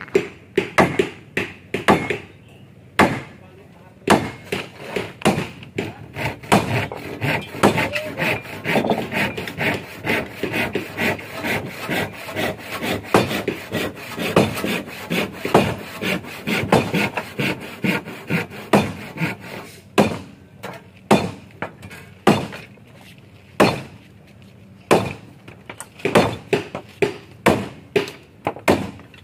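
Ulin (ironwood) boat timber being worked by hand: a fast run of rasping wooden strokes, about three or four a second, that thins out after about twenty seconds.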